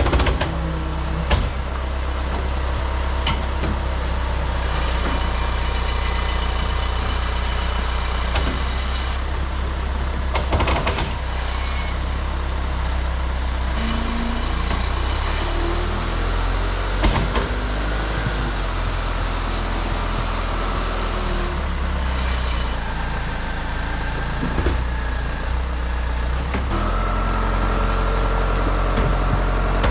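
Truck running on the road: a steady low engine drone with road noise, its pitch shifting a few times as it changes speed or gear, with a few short knocks and rattles.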